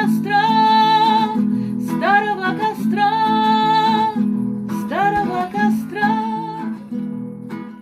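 The end of a song: a singer draws out the last words in three long held notes over strummed acoustic guitar, and the guitar then rings out and fades.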